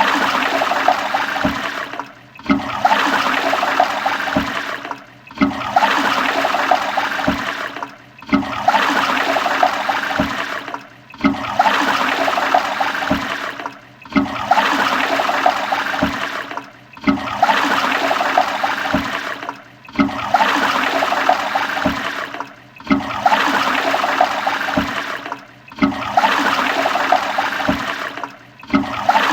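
Toilet flushing: a short burst of rushing water that starts sharply and fades. The same flush repeats about every three seconds with a brief break between each.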